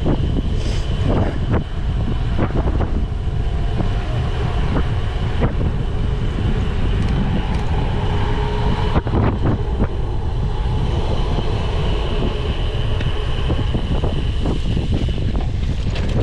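Cyclocross bike rumbling and rattling over rough course ground, with scattered sharp knocks from the frame and drivetrain.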